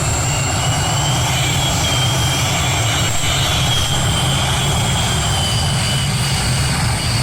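Competition pulling tractor's engine running loud and steady at high power, with a thin high whine that wavers slightly in pitch above the low engine note.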